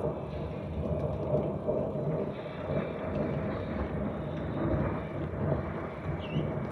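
A long, low, continuous rumble of thunder following a lightning flash. A short bird chirp near the end.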